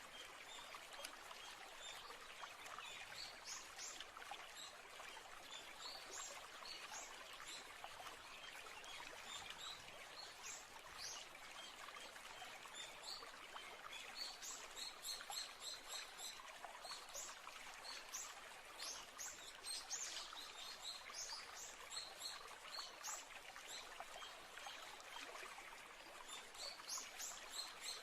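A stream trickling steadily, with small birds chirping in short high notes throughout, in quick repeated runs more often in the second half.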